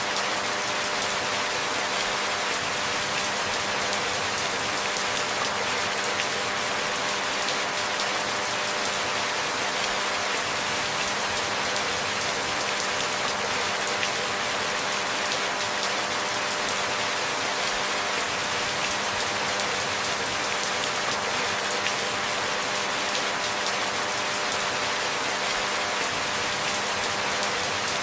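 Steady, even rain, a constant hiss made of many small drop hits, with no changes or breaks.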